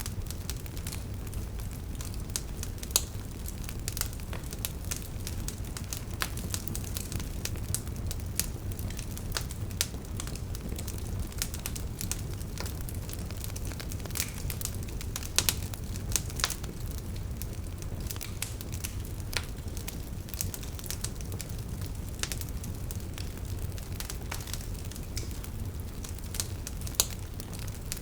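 Wood fire burning, a steady low rumble of flames with frequent sharp crackles and pops from the burning logs; a few louder pops stand out, about three seconds in, around the middle and near the end.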